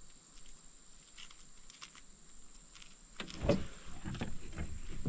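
Faint hiss with a steady high whine, then from about three seconds in a run of irregular knocks and scrapes.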